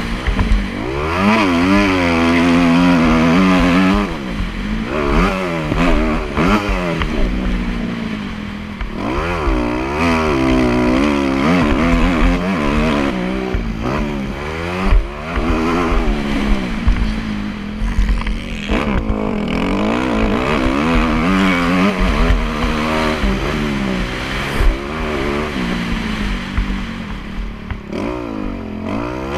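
Motocross bike engine revving hard and falling back again and again, its pitch rising and dropping every second or two as the rider works the throttle and gears.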